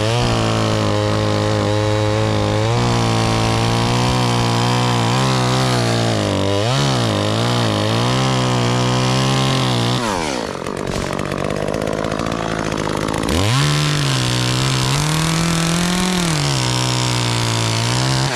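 Gas chainsaw running at high throttle, its pitch wavering for a moment, then dropping to idle about ten seconds in. It revs up again a few seconds later and drops off near the end.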